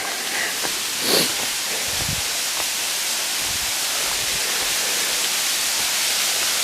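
Rushing water of a mountain waterfall, a steady hiss that grows slightly louder, with a few faint clicks over it.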